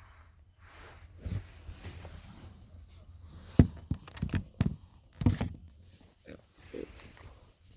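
A scatter of knocks and clicks with some rustling, the loudest grouped between about three and a half and five and a half seconds in.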